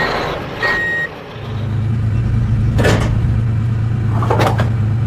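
One reversing-alarm beep from a mini truck, then a steady low engine hum starts about a second and a half in. Two sharp knocks come near the middle and near the end.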